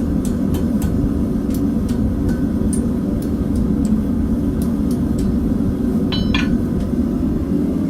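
A forge running with a steady low rumble. Faint scattered clicks throughout, and one sharp metallic clink with a brief ring about six seconds in.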